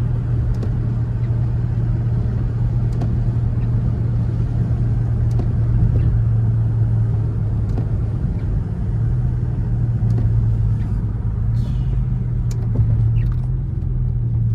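Dodge Charger R/T driving at a steady pace: an even low drone of its V8 engine mixed with tyre and road noise, with no rise in pitch.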